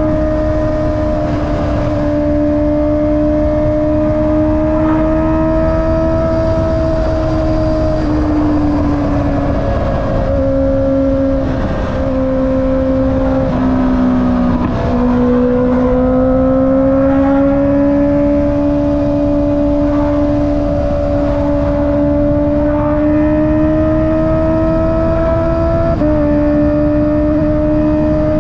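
Honda CB650R's inline-four engine through an Akrapovic exhaust, running steadily under way with wind rushing past. Its pitch drops a few times in the middle and climbs slowly afterwards, with a sudden step up in pitch near the end.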